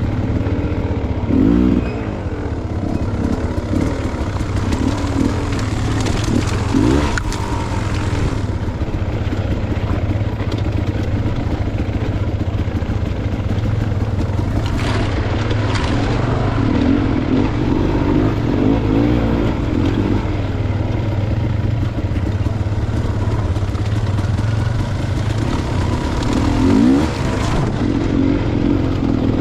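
Dirt bike engine on a single-track trail ride, the revs rising and falling over and over as the throttle is worked, with clatter and sharp knocks from the bike over rough ground.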